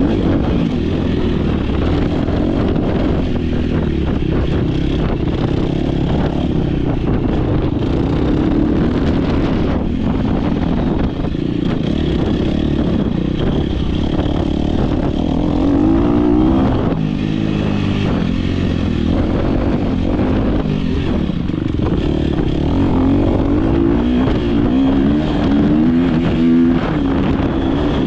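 Dirt bike engine at race pace, revving up and down again and again as the rider accelerates and shifts. Short knocks and clatter run throughout, with a noisy rush over it.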